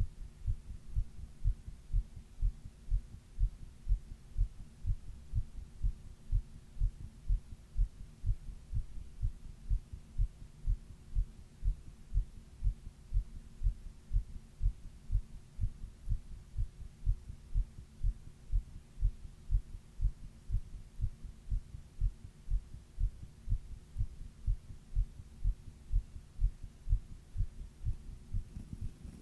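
A person's heartbeat heard close up: a steady, even run of low thumps, over a faint steady hum.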